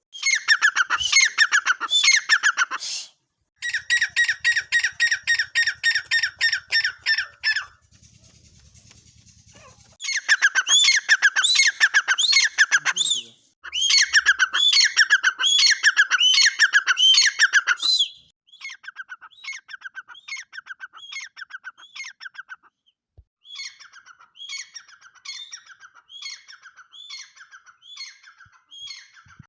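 Teetar (francolin) calling: runs of rapid, repeated harsh notes, several seconds each, broken by short pauses, with a fainter series of calls in the last third.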